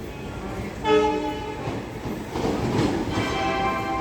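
Indian Railways locomotive horn sounding twice, a short blast about a second in and a longer one starting near the end, over the steady rumble of a moving train.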